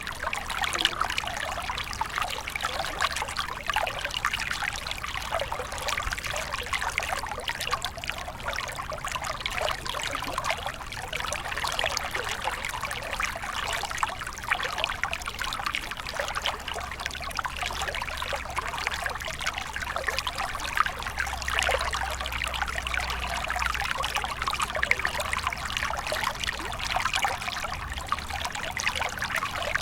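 A small stream running and trickling over stones, a steady babble of many small splashes.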